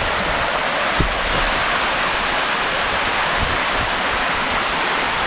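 Waterfall's steady rush of falling water, with a brief low thump about a second in.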